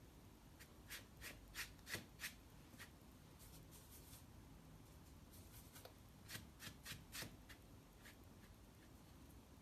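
Watercolour brush dabbing and stroking on paper: two runs of short, quick strokes, one near the start and one past the middle.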